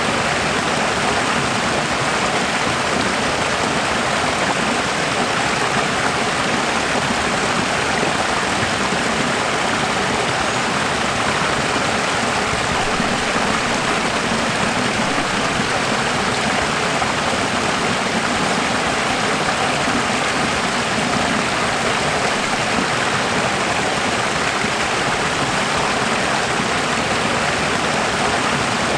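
Steady running water, a continuous even rushing like a stream flowing over rocks.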